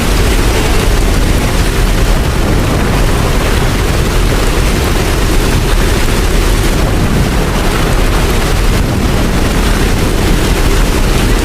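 Steady, unbroken rain with a deep rumble underneath.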